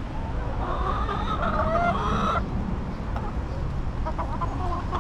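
Backyard hens clucking and calling, with a run of drawn-out, wavering calls in the first half that cuts off suddenly, over a steady low rumble.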